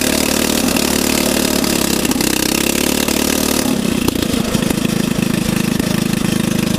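Small lawnmower engine driving a homemade go-kart through a torque converter and chain, running steadily. About four seconds in its sound changes and briefly breaks up, then settles into a steady, even run.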